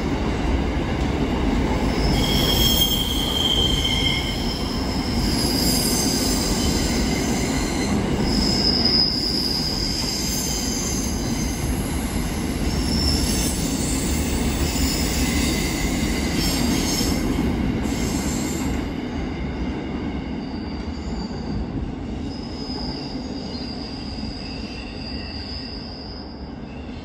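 Container freight train's wagons rolling past, wheels rumbling steadily with high squeals coming and going. The sound dies away over the last several seconds as the end of the train passes.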